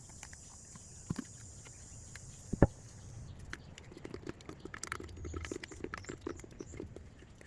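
Handling noise from a small wooden birdhouse being taped off for painting: scattered light taps and clicks, with one sharper knock a little over two and a half seconds in. A faint steady hiss runs through the first three seconds.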